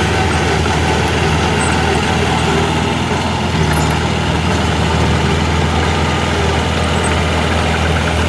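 Heavy diesel earthmoving machinery, a dump truck or bulldozer engine, running steadily at a constant low pitch.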